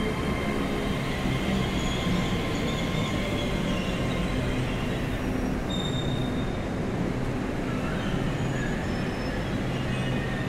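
Hitachi Class 800/3 bi-mode multiple unit moving past a platform: a steady rumble of wheels and underfloor machinery, with thin high wheel squeals coming and going.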